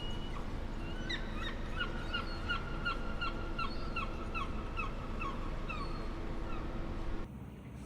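A bird calling: a run of short, slightly falling notes repeated about three times a second for some five seconds, then fading out.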